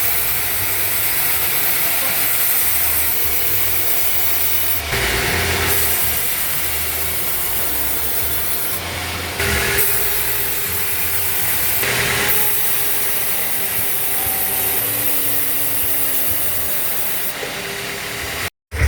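Band sawmill blade cutting through a desert acacia log, a steady hissing rasp of the saw in the wood, with brief changes in tone about five, ten and twelve seconds in. It stops abruptly just before the end.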